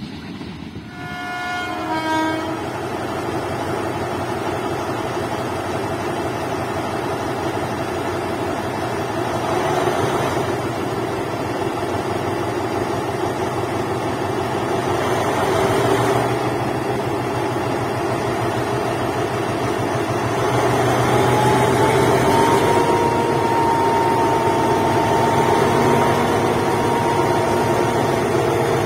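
State Railway of Thailand diesel locomotive no. 4140 hauling passenger carriages, which roll past close by on the rails with a steady rumble. A short falling tone sounds near the start, and a thin, steady high tone is held from about two-thirds of the way through to near the end.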